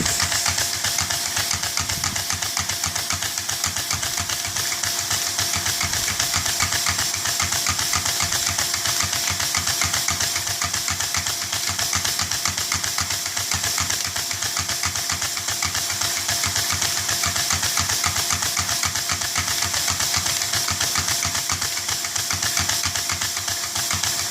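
Valveless LEGO engine running on air from a hairdryer, giving a fast, even run of hard thumps, over the steady hiss and whine of the hairdryer blowing.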